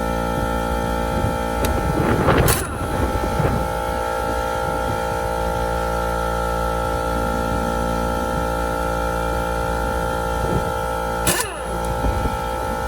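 A steady mechanical hum, with a sharp knock about two and a half seconds in and another near the end.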